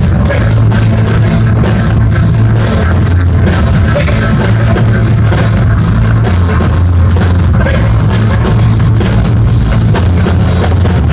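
A live band playing loud music with a steady drum beat and heavy bass.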